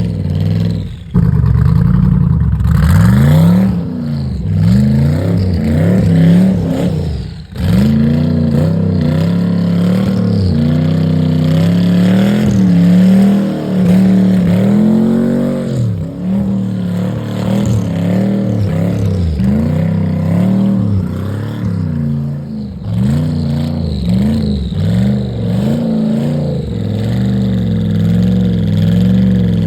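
Twin-turbo Pontiac G8's LS V8 revving up and down over and over as the driver tries to spin it through donuts on drag slicks that find no grip in the snow. The revs drop off briefly about a second in and again about seven seconds in.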